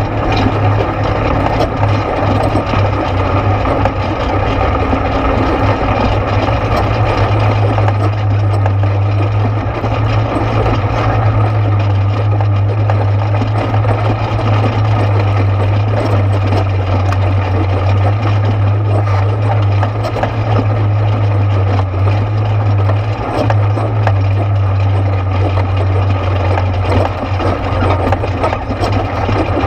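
ATV engine running steadily, a constant low drone that barely changes in pitch, with a dense rumble of noise over it.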